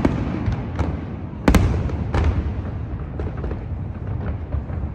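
Fireworks going off: one sharp bang about a second and a half in, with smaller cracks and scattered crackling around it over a steady low rumble.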